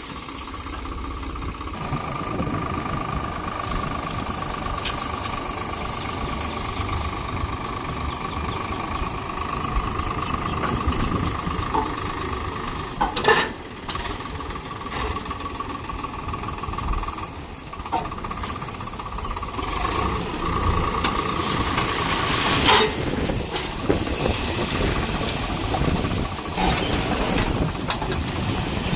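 Diesel engines of a JCB backhoe loader and tractor running steadily, with a continuous high whine over the rumble. There are two sharp knocks, one a little before halfway and one about three-quarters of the way through.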